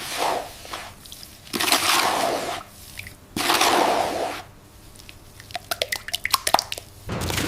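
Wet sloshing or pouring sounds in three bursts of about a second each, followed by a quickening patter of small sharp clicks. A steady sound with a low hum sets in near the end.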